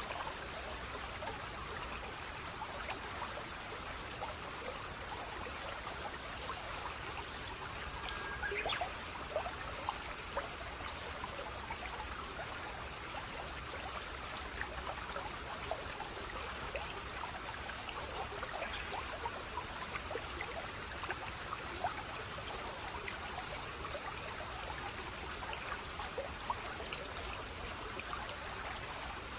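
Small stream trickling and babbling steadily, with a constant patter of little splashes and drips, slightly louder about nine seconds in.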